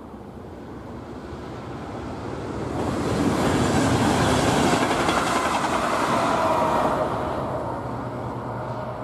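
Double-deck electric passenger train passing at speed over a level crossing: a rumble of wheels on rail that swells to a peak in the middle and then fades, with a whine that drops in pitch as the train goes by.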